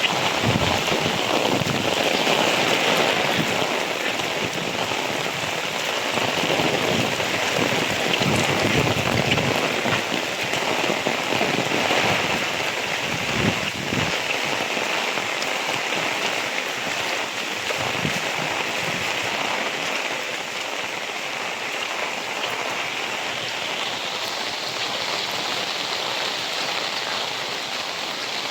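Heavy rain falling steadily, drops pattering on surfaces, with a few faint low thumps.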